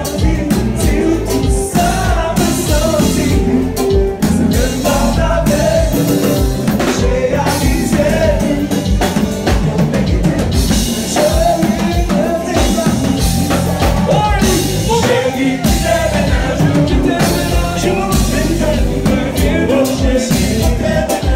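Haitian konpa band music with a lead singer over drum kit, bass and guitar, playing continuously with a steady beat.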